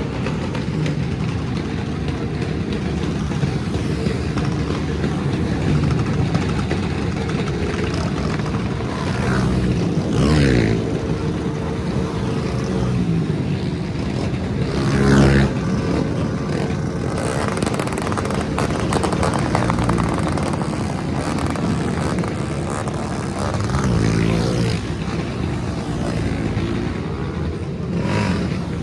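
Motorcycle engines running and revving, the pitch sweeping up and down several times as bikes rev and pass, over a steady background of other idling engines.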